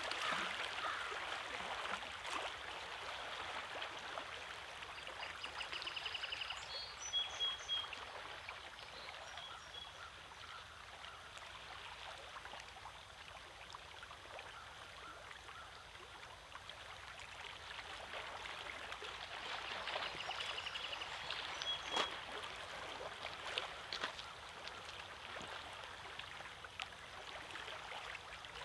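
Small waves lapping and trickling among shoreline rocks, with a faint sharp splash here and there. Brief high bird calls come twice.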